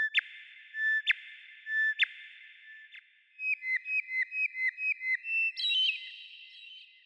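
A songbird singing: three clear whistled notes about a second apart, each ending in a quick downward slur, then a fast run of about eight short repeated notes and a higher warbling flourish near the end.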